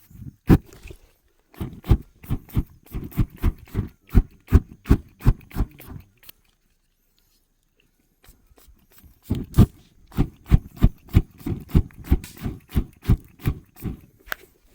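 Repeated knocks or blows, about two to three a second, in two runs separated by a pause of about two seconds.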